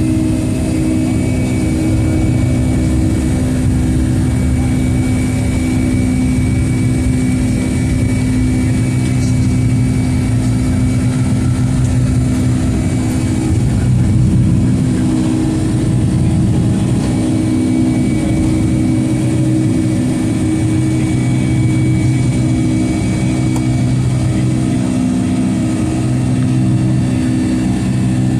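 Steady jet engine and airflow noise inside the cabin of a Boeing 757-200 airliner: a constant low rumble with a few steady engine tones over it.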